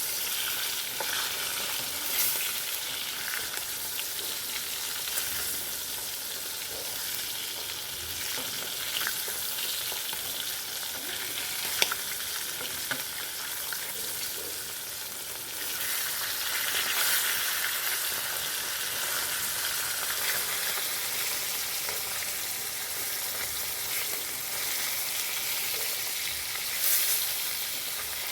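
Fish pieces frying in hot oil in a pan: a steady sizzle with occasional light clicks, growing louder about halfway through.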